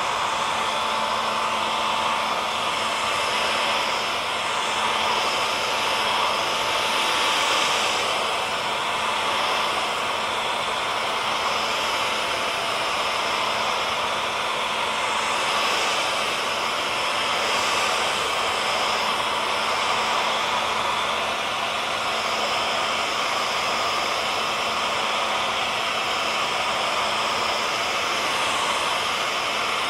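Hair dryer running steadily: an even rushing of blown air over a motor's whine, with a faint steady hum.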